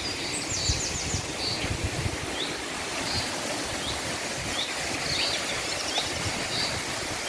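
Steady rush of a waterfall's running water, with small birds giving short rising chirps about once a second and a quick trill near the start.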